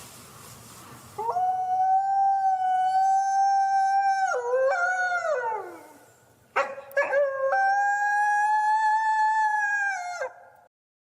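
A wolf howling twice. The first howl holds a steady note for about three seconds, then wavers and slides down. The second starts with a few short broken notes, holds steady, and falls away at the end, followed by a sudden cut to silence.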